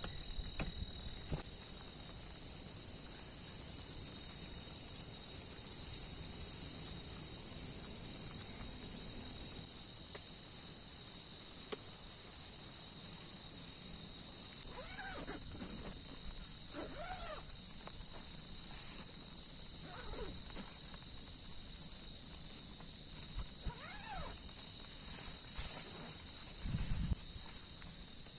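Chorus of forest insects such as crickets, trilling steadily at two high pitches and growing a little louder about ten seconds in. A few sharp clicks sound near the start, and several faint short calls rise and fall in the middle.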